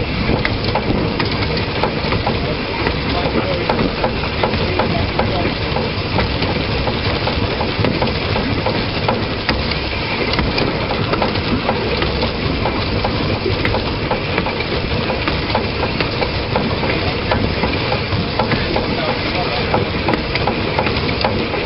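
Narrow-gauge train running along the track, heard from a camera mounted on the locomotive: a steady, loud rumble and rattle with many small rapid clicks of the wheels on the rails.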